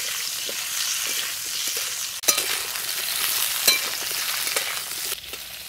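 Potato and small brinjal pieces sizzling as they fry in hot mustard oil in a metal kadai, stirred with a metal spatula that scrapes the pan. The spatula knocks sharply against the pan twice, a little over two seconds in and about a second and a half later.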